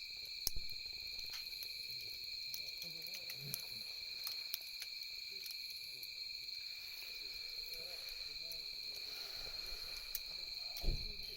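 Campfire crackling with scattered sharp pops, over a steady chorus of night insects trilling at two high pitches. A single low thump comes near the end.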